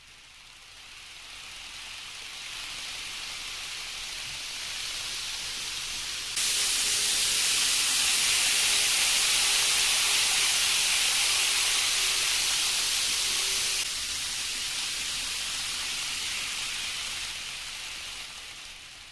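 Rushing hiss of a Shinkansen train running past, building up, loudest through the middle and fading away at the end. It jumps louder about six seconds in and drops back sharply about fourteen seconds in.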